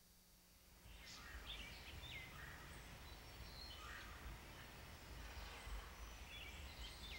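Faint bird chirps and calls, short notes sliding up and down in pitch, starting about a second in, over a low rumble.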